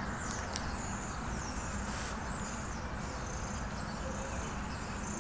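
Small birds chirping: a scattered run of short, high, falling chirps over a steady low background rumble.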